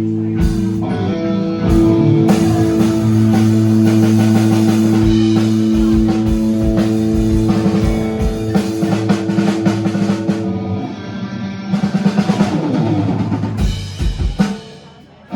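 Live band playing loud: held guitar chords over a drum kit, breaking into a quick run of drum hits near the end before it drops away.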